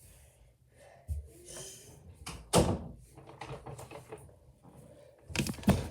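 Several knocks and clunks of objects being handled and moved while rummaging, with soft rustling in between; the loudest clunk is in the middle and a quick cluster of knocks comes near the end.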